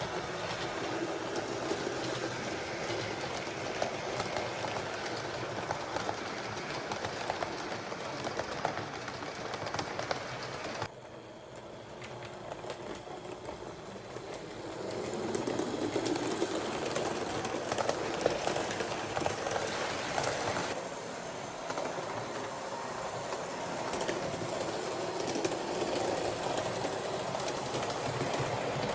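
H0-scale model trains running on the layout: small electric motors whirring and wheels clicking rapidly over the track. The sound drops suddenly about eleven seconds in, swells again a few seconds later, and changes abruptly once more about two-thirds of the way through.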